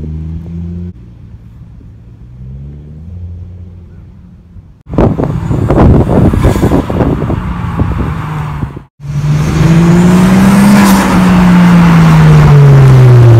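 Lexus IS300 with a swapped twin-turbo 2JZ-GTE inline-six accelerating hard toward and past, very loud. The engine is quieter for the first few seconds, turns suddenly loud about five seconds in, then its note climbs and falls as the car goes by near the end.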